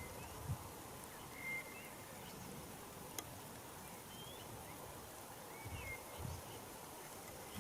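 Faint outdoor ambience with birds giving short, scattered chirps over a steady background hiss, and a single sharp click about three seconds in.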